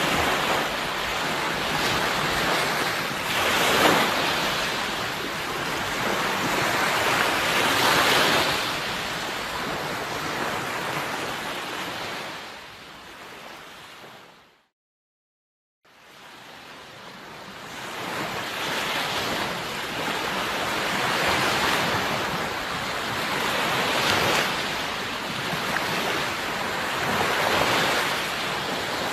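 Sea waves, a steady wash of surf that swells every few seconds. About halfway through it fades out to a second or so of silence, then fades back in.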